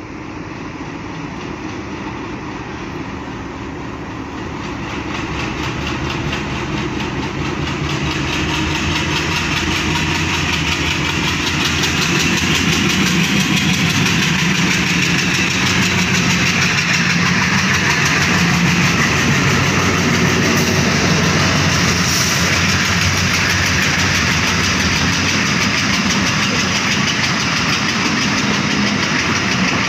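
Diesel locomotive running under load as it pulls a passenger train away, its engine note growing louder over the first dozen seconds as it nears and passes. Then there is a steady rumble and rattle of the coaches' wheels on the rails.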